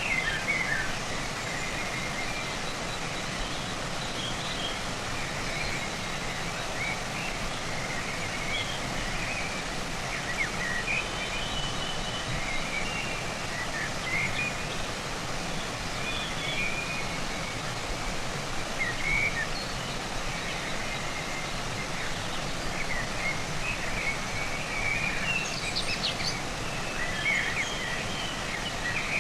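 Steady rush of flowing stream water, with small birds chirping on and off over it, more often near the end.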